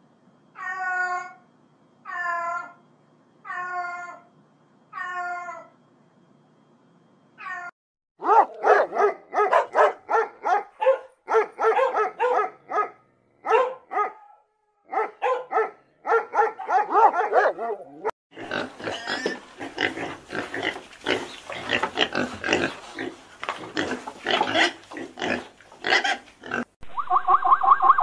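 A cat meowing five times, each call falling in pitch, then puppies yelping and whining in quick, squeaky cries. Later comes a longer run of rapid squeals, and near the end a continuous pulsing call starts.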